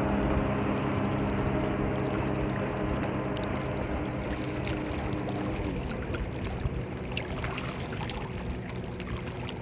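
Water splashing and lapping under a steady motor hum. The hum fades out about halfway through, and small drips and splashes come through more clearly near the end.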